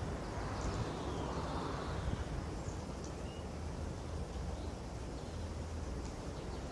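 Outdoor background noise: a steady low rumble with a few faint short chirps.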